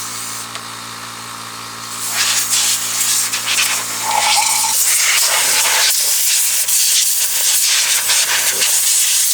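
Loud steady hiss of a jet of air or spray, starting about two seconds in. Under it a machine hum runs and cuts off about halfway through.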